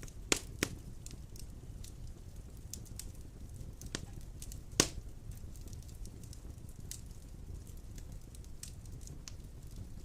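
Large logs burning in a wood fireplace: a steady low rumble of flame with scattered crackles and a few sharp pops, the loudest two within the first second and one about halfway through.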